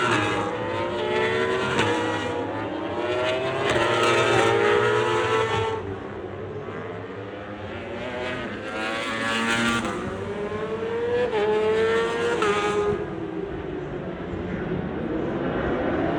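Several endurance-racing superbikes at full throttle. Their engines climb in pitch and drop sharply at each upshift, overlapping as the bikes pass in waves.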